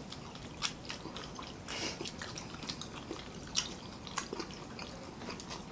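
People chewing fried crisscut potato fries, with scattered short wet mouth clicks and smacks a second or so apart.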